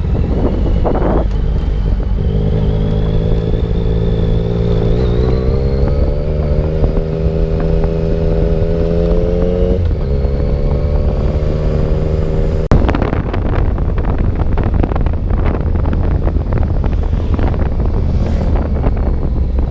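Yamaha motorcycle engine under way, its note climbing slowly as the bike gathers speed, dropping once near the middle at a gear change, over heavy wind rumble on the microphone. A sharp knock comes about two-thirds of the way in, after which mostly wind noise is heard.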